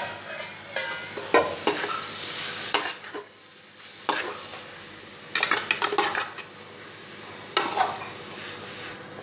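Chicken frying in a kadai of oil and spice masala, sizzling with a steady hiss, while a spatula stirs and scrapes the pan in a series of separate strokes.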